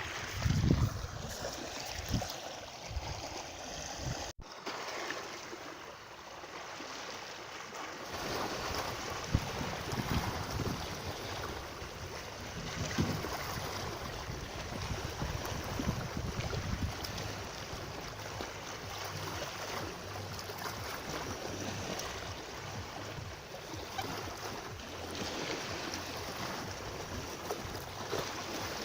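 Steady rush of moving water with wind, a broad noisy wash with some low buffeting near the start. The sound cuts out for an instant about four seconds in.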